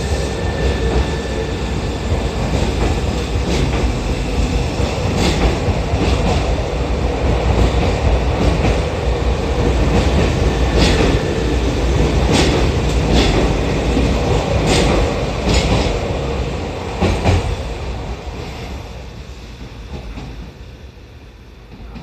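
Senboku Rapid Railway 3000 series electric train pulling out and running past, a steady rumble broken by clacks of its wheels over rail joints. The sound fades away over the last few seconds as the last car leaves.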